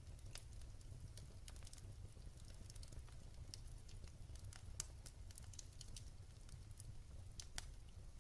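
Wood fire crackling in a fireplace: irregular sharp pops and snaps over a low, steady rumble, the sharpest pop about five seconds in.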